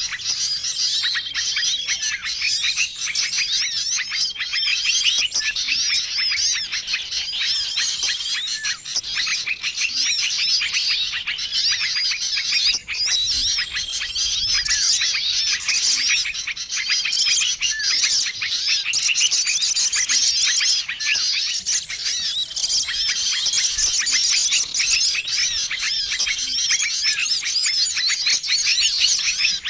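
A dense, noisy chorus of many small songbirds chirping and twittering without a break, a bird-luring call recording. A short, level whistled note recurs every couple of seconds through the chatter.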